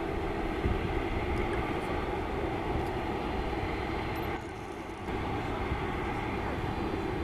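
Boeing 747-400 freighter's jet engines running with a steady rumble and a held hum, dipping briefly about four and a half seconds in.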